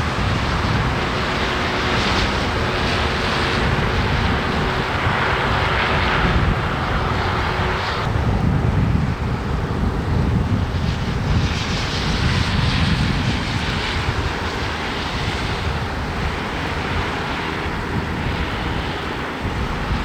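Wind buffeting the microphone with a steady low rumble while traffic passes on a snowy road; the hiss of passing vehicles swells and fades several times.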